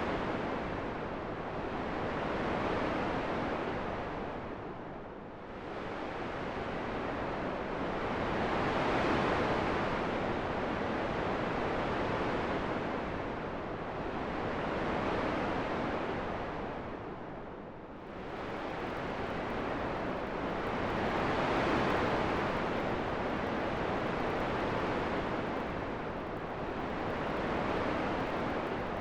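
Wind blowing as a continuous rushing noise that swells and eases in slow gusts every several seconds, with two deeper lulls, one near the start and one about two-thirds of the way through.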